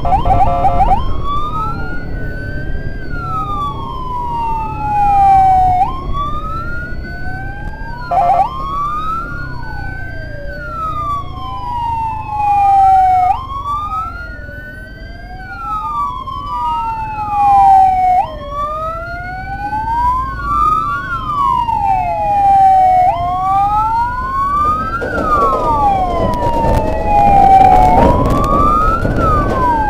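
Two emergency sirens wailing at once from an ambulance and its escort, their rising and falling sweeps crossing each other. Short horn blasts come near the start and again about eight seconds in, over steady traffic rumble.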